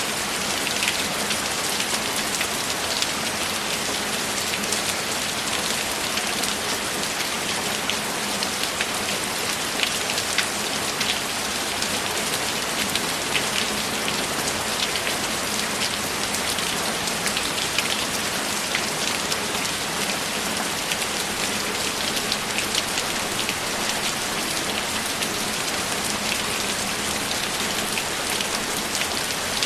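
Steady, heavy rain falling, with many individual drops ticking close by.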